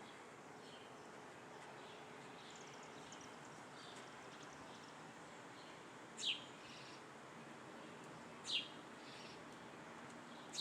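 Wild birds calling: scattered faint high chirps over a steady background hiss, with three louder, sharp down-slurred calls about two seconds apart in the second half.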